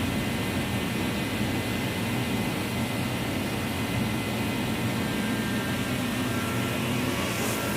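Reddy Heater Pro 150 kerosene forced-air heater running steadily, its fan and burner making an even whooshing hum, lit and warming up after a new nozzle was fitted.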